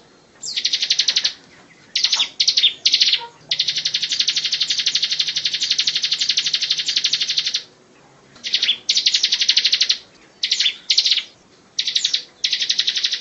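Bar-winged prinia (ciblek) singing its fast, buzzing, drill-like trill ('ngebren') in repeated bursts. The longest trill runs about four seconds, starting about three and a half seconds in.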